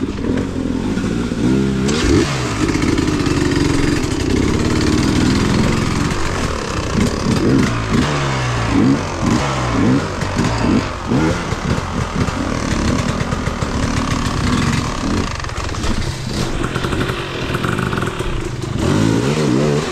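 Engine of an off-road vehicle revving up and down over and over as it is ridden along a trail.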